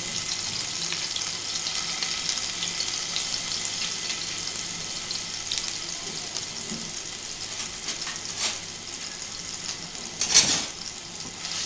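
Ginger-garlic-green chilli paste (thecha) sizzling in a spoonful of hot oil in a frying pan, a steady high hiss. A light knock about eight and a half seconds in and a louder clatter near the end.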